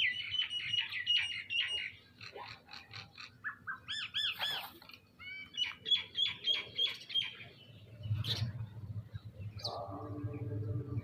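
Birds calling: quick runs of sharp chirps, a few looping whistles about four seconds in, then more rapid chirps. A low hum with a steady pitched sound comes up near the end.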